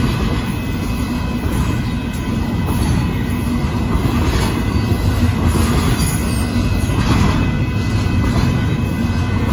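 Union Pacific intermodal freight train rolling past at close range: a steady, loud rumble of wheels on the rails.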